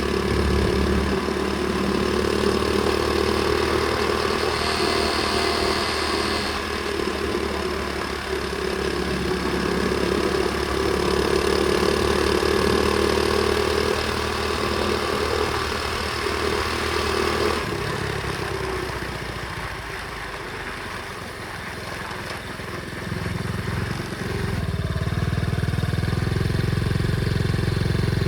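Pit bike engine running under way. It drops back about eighteen seconds in and picks up again some five seconds later.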